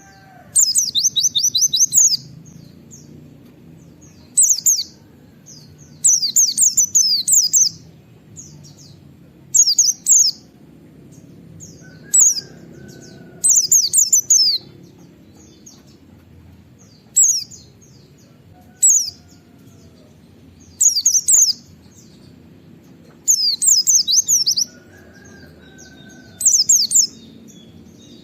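White-eye (pleci) singing in short bursts of high, rapid twittering, one burst every second or two.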